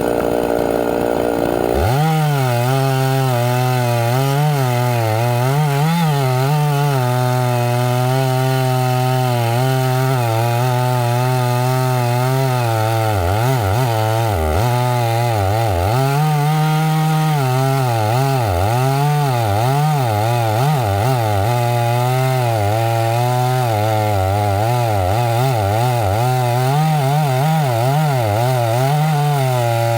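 Chainsaw running under load, cutting through pine wood, its engine pitch wavering up and down as the chain bites. The sound changes abruptly about two seconds in.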